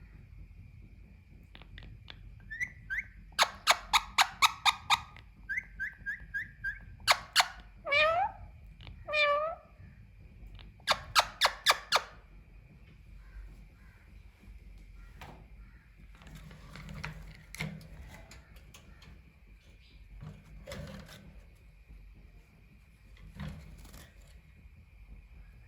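Female Indian ringneck parakeet calling: quick runs of sharp, repeated shrieks and a couple of down-slurred, meow-like calls, then quieter chatter.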